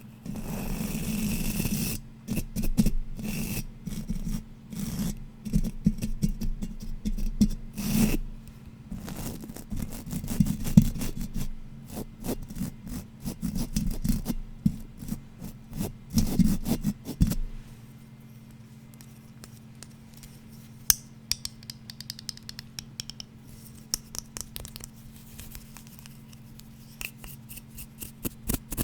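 Fast tapping and scratching on an unidentified object, a dense run of quick taps and scrapes for the first two-thirds, then turning to sparser, lighter taps and scratches about seventeen seconds in.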